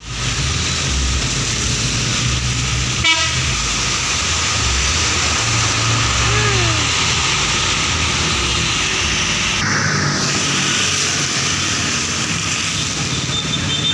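Scania K410 tour bus's diesel engine running in road traffic, with steady road noise and a single sharp knock about three seconds in.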